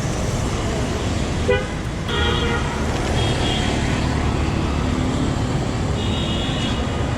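Street traffic: vehicle engines running steadily under repeated car horn honks, a short one at about one and a half seconds, two around two to three and a half seconds in, and another near six seconds.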